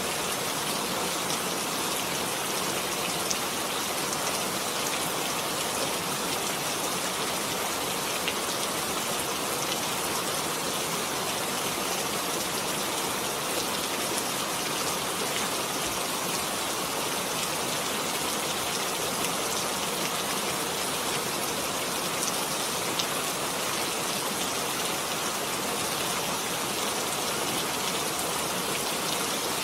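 Heavy rain falling steadily, a dense even hiss with a few individual drops standing out now and then.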